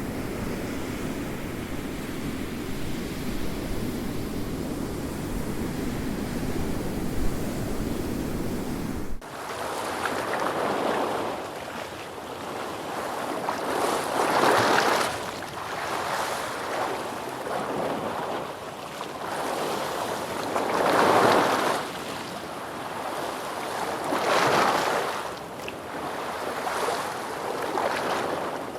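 Ocean waves. A steady low rush runs for the first nine seconds or so, then changes abruptly to waves breaking and washing in, swelling and falling back every few seconds.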